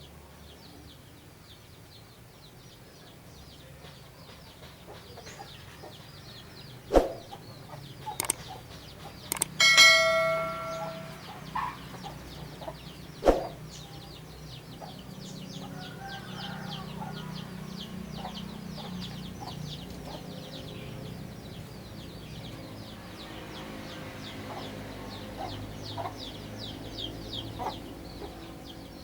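A flock of munias chirping in rapid, short, high notes throughout. A few sharp knocks come between about seven and thirteen seconds in, and a loud, brief, steady-pitched call comes about ten seconds in.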